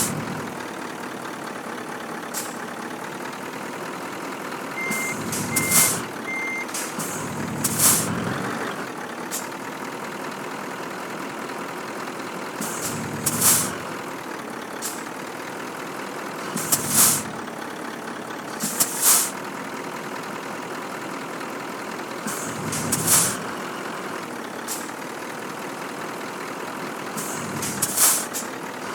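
A Scania truck's diesel engine running steadily, with short bursts of air hissing from the air brakes every few seconds. Three short beeps sound about five seconds in.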